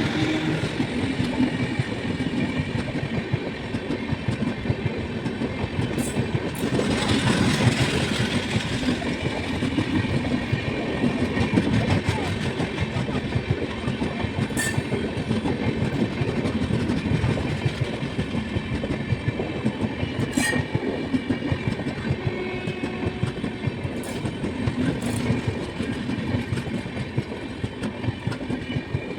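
Indian Railways passenger train running on the rails: a steady rush with wheels clattering over the track, and a few sharp clicks scattered through.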